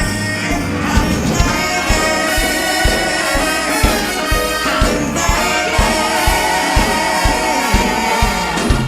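Instrumental break in an upbeat swing-style song: band music with brass over a steady beat of about two thumps a second.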